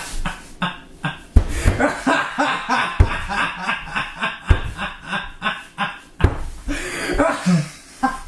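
A person laughing, a sound-effect laugh in short repeated bursts, about three or four a second.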